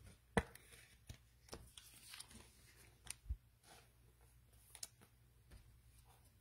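Trading cards being handled at a table: light rustling with several sharp clicks and taps, the loudest about half a second in.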